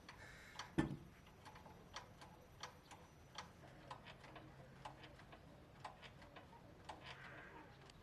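Faint, irregular ticking, roughly one or two light ticks a second, with a single louder knock about a second in.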